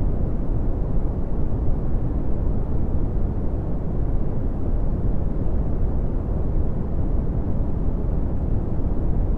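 Steady red (Brownian) noise: an even, deep rumbling hiss strongest in the bass and falling off toward the treble, with no changes.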